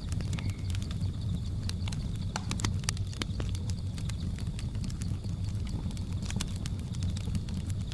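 Wood fire crackling, with irregular sharp pops and snaps over a low steady rumble. A steady high-pitched drone of jungle insects runs behind it.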